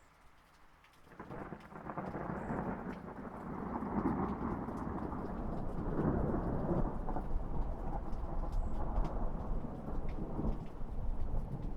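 Thunder: a long low rumble that begins about a second in and keeps going, over steady light rain with scattered raindrops ticking.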